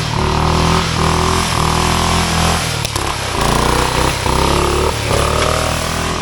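Small riding lawn mower engines racing, the throttle opened and eased off about once a second, so the engine note rises in short stretches and drops back.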